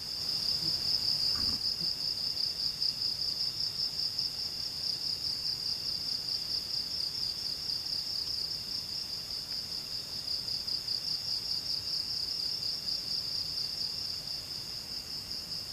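Night insects, crickets by their sound, trilling in a steady high-pitched chorus that pulses rapidly without a break.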